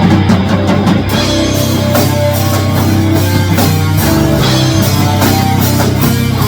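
Instrumental rock music: electric guitar over bass and drum kit, the texture filling out about a second in.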